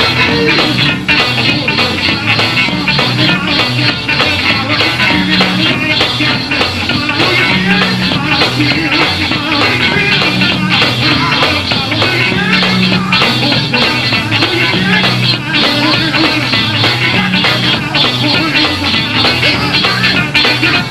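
Live gospel band playing loud, up-tempo music without vocals: a driving shout section with a repeating low bass line and steady beat.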